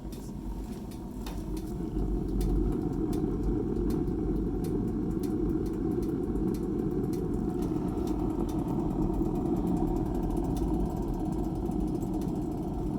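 Gravity-fed wood pellet burner running: a steady low rumble from its fire and 12-volt exhaust fan, with faint crackling throughout. It swells over the first two seconds, then holds.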